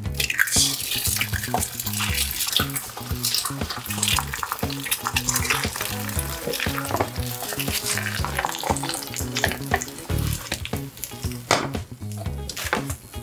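Food sizzling and crackling as it fries in a pan, with background music over it.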